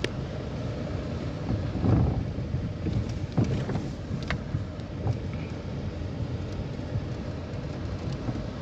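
A vehicle driving, its steady engine and road noise heard from inside. There is a louder thump about two seconds in and a few sharp knocks a little later, from the vehicle jolting over the track.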